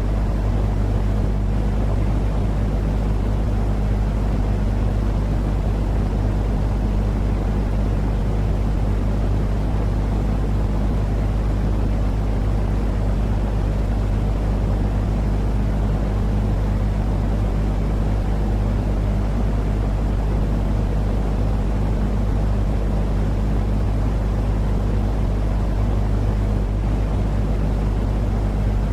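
Steady, unchanging white-noise sleep sound: a deep, even rushing noise weighted heavily toward the bass, with a constant low hum underneath.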